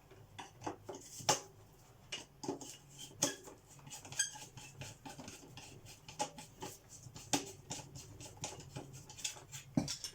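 Irregular small clicks, knocks and metal clinks of hand tools and parts as the handle is worked off a vintage Hoover Junior upright vacuum cleaner; it is stiff, having been on for a long time.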